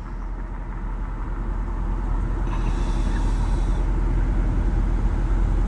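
Steady low rumble of an idling car, heard from inside its cabin, slowly growing a little louder.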